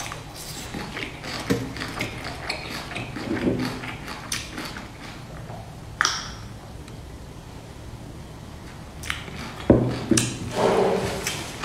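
Close-miked eating sounds from a dumpling being chewed: many small wet clicks and smacks of mouth and lips. About six seconds in there is a sharp sound as she sips from a mug, and near the end a loud thump.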